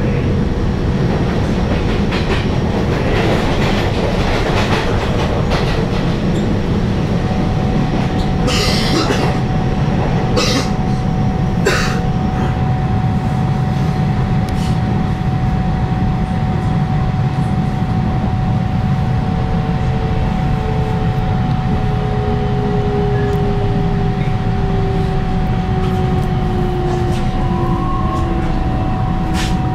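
Taiwan Railway EMU700 electric multiple unit running, heard inside the passenger car: a steady low rumble of wheels on rail, with three sharp clacks about a third of the way in. A steady tone comes in a quarter of the way through, and a second tone glides slowly down in pitch over the second half.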